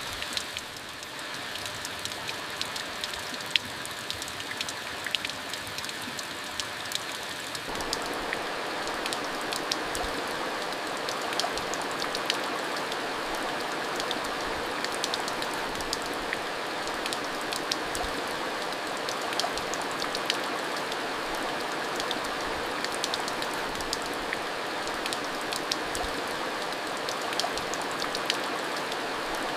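Rain falling steadily, a constant hiss dotted with many separate drops ticking. About eight seconds in it suddenly turns louder and fuller, then holds steady.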